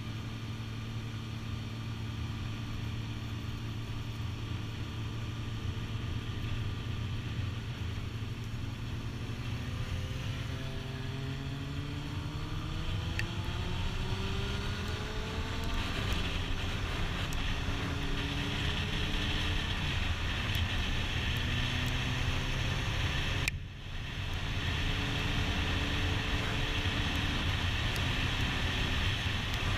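Sport motorcycle engine running at road speed with wind noise, heard on board the bike. About a third of the way in the engine pitch climbs for several seconds as the bike accelerates, then holds steady. The sound breaks off briefly a few seconds before the end.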